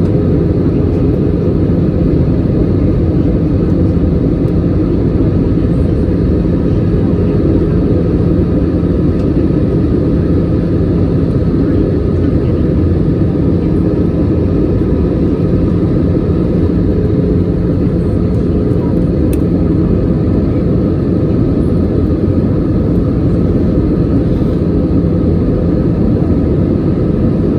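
Airbus A321 jet engines and airflow heard inside the passenger cabin: a steady, loud rumble with a constant hum.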